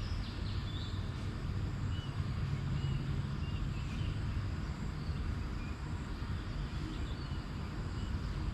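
Outdoor ambience: a bird gives short chirps every second or so over a steady low rumble and hiss.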